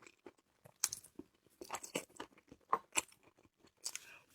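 A person chewing charcoal-grilled sea snail meat close to the microphone: a string of short wet crunches and mouth clicks, the loudest about a second in and again near three seconds.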